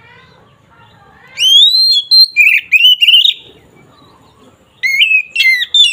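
Oriental magpie-robin (kacer) singing loud, clear whistled phrases: a rising slide into a quick run of sharp notes about a second and a half in, then a second burst of sharp notes near the end.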